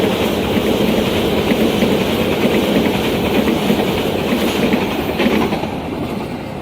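Train passing at speed, its wheels clattering over the rail joints, the sound easing off near the end as it goes by.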